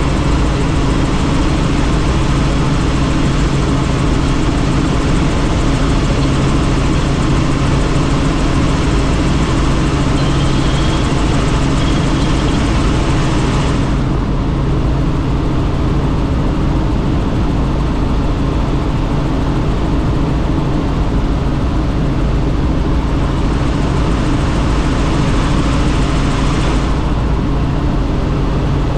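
Helicopter in flight, heard from inside a doors-off cabin: steady engine and rotor drone under a rush of wind. The upper hiss falls away about halfway through and returns near the end.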